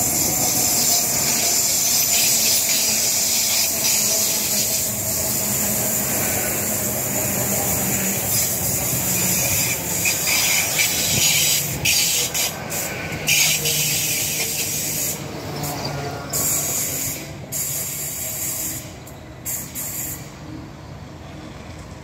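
A Great Western Railway Hitachi Intercity Express Train passes close at speed. Its wheels on the rails and the air along the coaches make a steady, loud hiss, which fades over the last few seconds as the train goes by.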